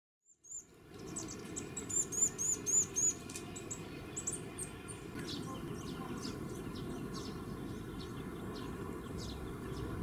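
Small birds chirping: a quick series of high, repeated chirps, about three a second, in the first few seconds, then scattered high calls, over a steady low background rumble.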